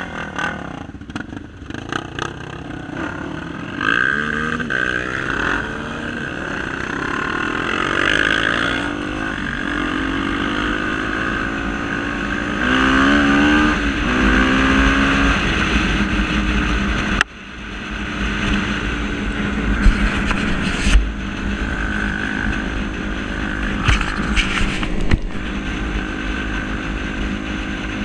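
Honda XR250 Tornado trail motorcycle's single-cylinder engine running under load, its pitch rising and falling several times as the throttle is worked. The level drops suddenly about 17 seconds in.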